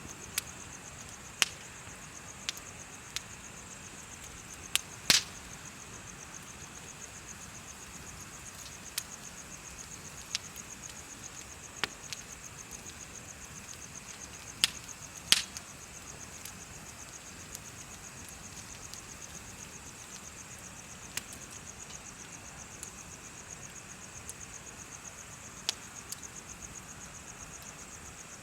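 Bonfire crackling with irregular sharp pops, the two loudest about five and fifteen seconds in, over insects chirping in a steady, high, fast-pulsing trill.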